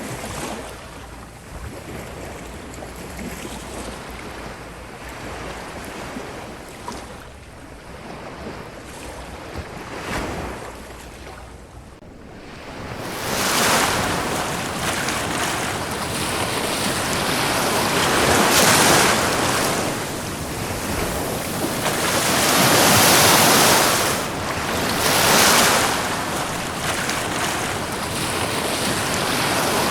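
Ocean waves breaking and washing up a beach: a softer wash for the first dozen seconds, then louder, with waves surging in one after another every few seconds.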